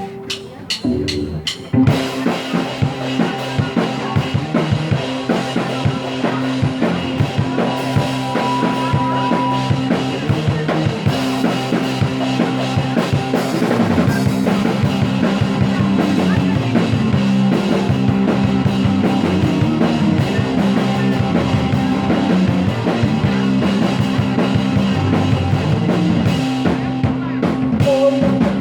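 Instrumental rock music with a drum kit and guitar. It opens with a few scattered drum hits, and the full band comes in about two seconds in and plays steadily with a driving beat.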